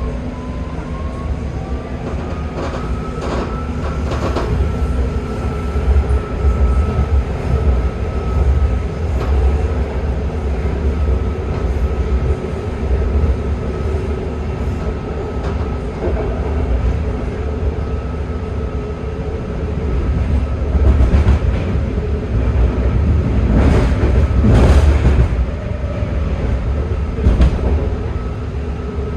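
BART train running between stations: a steady low rumble of wheels on rail, with a motor whine that rises in pitch near the start and then holds steady as the train gets up to speed. A few sharp clacks of the wheels over rail joints come later on.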